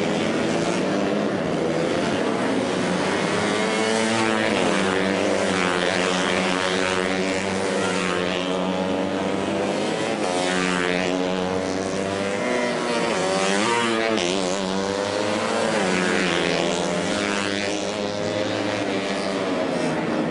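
Several racing motorcycle engines running at high revs together, their pitch repeatedly rising and falling with throttle and gear changes as they pass.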